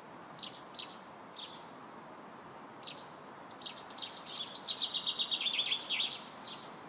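Bird song: a few separate short high chirps, then from about three and a half seconds in a fast run of notes that steps downward in pitch and ends near the six-second mark.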